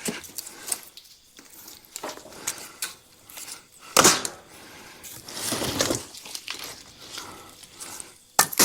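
Split firewood pieces knocking and thudding as they are handled and dropped: scattered irregular knocks, with a louder thud about four seconds in and another near the end.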